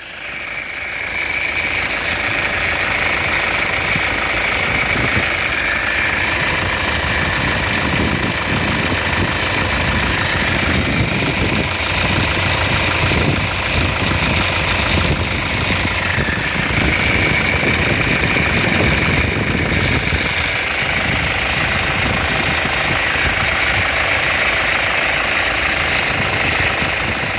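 Kia Sorento 2.5-litre CRDi D4CB diesel engine idling steadily with diesel clatter and a faint rattle from the timing chain, which the owner thinks has probably loosened.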